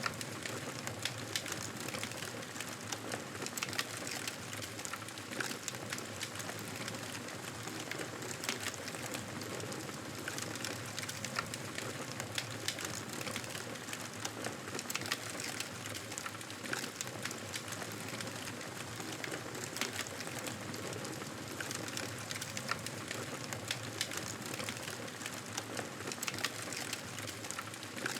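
Wood fire crackling in a fireplace: a steady hiss scattered with many small, irregular pops and snaps.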